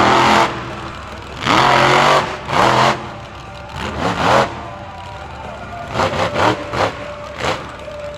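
Monster truck engine revving hard in repeated bursts, pitch climbing and dropping with each pull: several longer pulls, then a string of quick short blips near the end.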